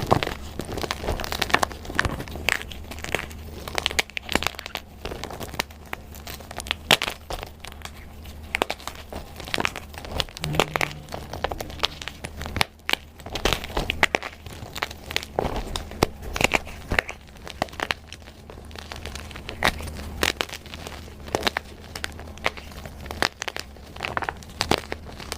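Blocks of dyed gym chalk being crushed and crumbled by hand: a dense, irregular run of dry crunches and crackles, with a faint steady low hum beneath.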